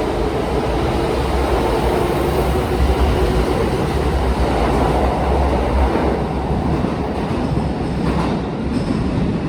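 Kintetsu electric train moving along a station platform: a loud, steady rumble of wheels and running gear, with a few faint tones early on, easing off after about six seconds.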